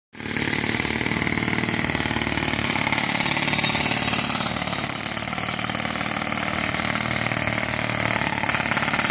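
Street-repair construction machinery running steadily without a break, a continuous engine-like drone with a fast, fine rattle.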